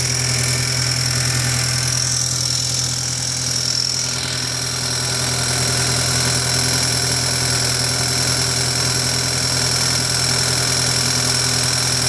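2003 Audi A4 1.8T turbocharged four-cylinder engine idling steadily with a persistent ticking. The tick remains with the engine fully warmed up after a head gasket and timing belt job with the timing marks lined up; its cause is undetermined.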